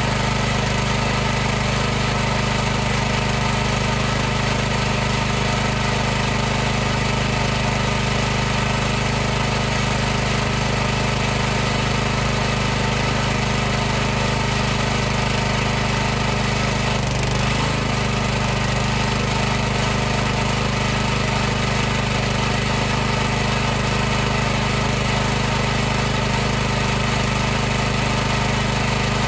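High-pressure washer's motor and pump running steadily with an even mechanical hum, its pitch dipping briefly a little past halfway.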